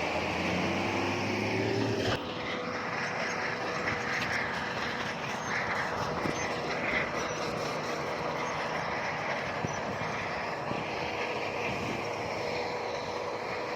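Heavy diesel construction machinery working: the engine note rises for about two seconds, then the sound changes abruptly to a steady, noisy rumble with a faint steady whine.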